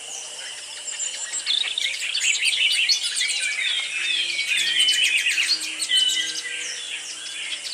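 A crowd of small parrots and parakeets chattering at once in an aviary: many overlapping short chirps, squeaks and whistles that grow busier after a second or so.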